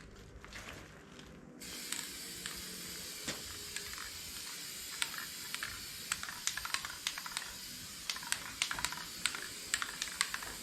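Aerosol spray paint hissing from a trigger-handled spray can, stopping briefly near the start and then resuming. Through the second half, irregular light clicks come several times a second.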